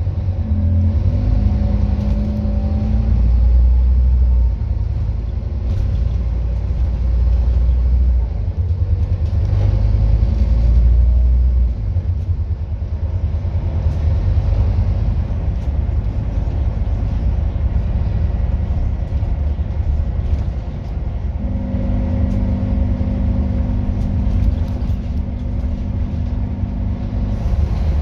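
Scania N230UD double-decker bus engine, a 9-litre five-cylinder diesel, running with a low rumble that swells and eases as it drives. A steady hum joins in from about three-quarters of the way through and stops shortly before the end.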